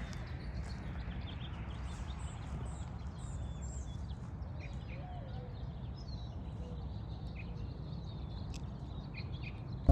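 Faint, scattered bird chirps over a low steady rumble.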